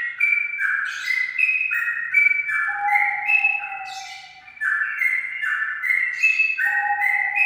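Straw-headed bulbul (cucak rawa) singing: phrases of clear, stepped whistled notes repeating every few seconds, some with a longer, lower drawn-out note. Loudness drops briefly a little past the middle.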